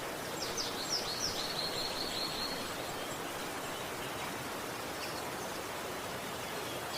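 River water rushing steadily. A bird calls about half a second in with a few quick high notes and then a rapid high trill lasting about two seconds, with another short high call near the end.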